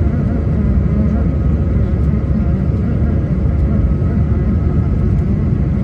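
Steady low rumble inside an Airbus A220 passenger cabin, the noise of its Pratt & Whitney PW1500G geared turbofans and airflow, with a few faint steady whining tones over it.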